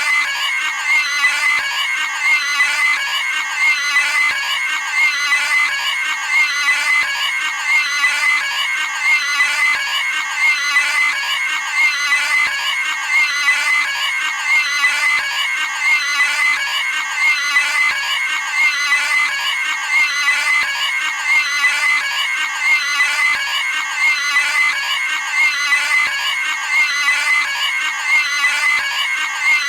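Cartoon pig screaming, a high-pitched squeal repeated over and over, about once a second, as a looped sound effect.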